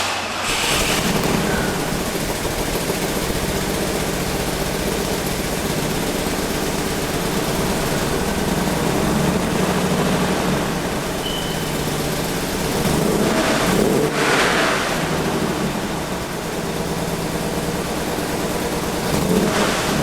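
1973 BMW 3.0 CSi's 3.0-litre straight-six engine running steadily, swelling louder a couple of times, around the middle and near the end.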